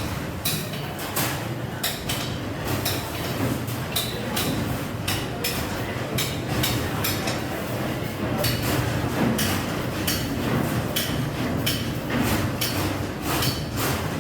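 Hammer tapping on iron wire: a run of sharp, irregular metal knocks, about two or three a second.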